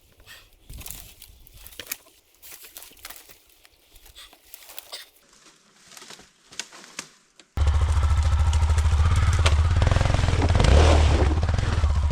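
Faint rustling and clicks, then an abrupt cut about seven and a half seconds in to an enduro motorcycle's engine running loud and steady, with a deep low rumble.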